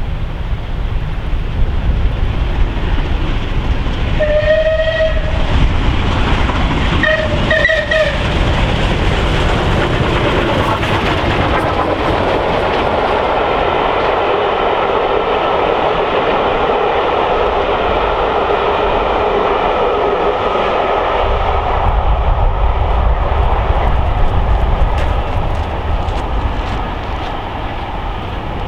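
Steam locomotive sounding its whistle in two short blasts, then the train passing close by, its wheels clattering over the rail joints.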